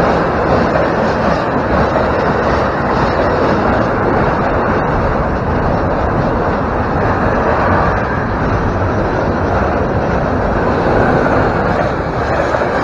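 Intermodal container freight train's flat wagons rolling past close by, giving a steady noise of wheels running on the rails.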